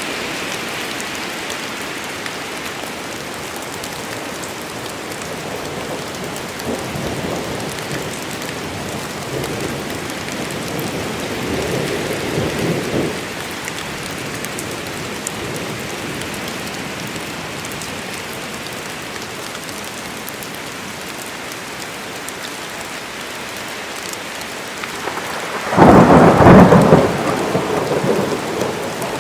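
Steady rain falling, with distant thunder rumbling in low from about six seconds in and a loud thunder crack about four seconds before the end, rolling on to the close.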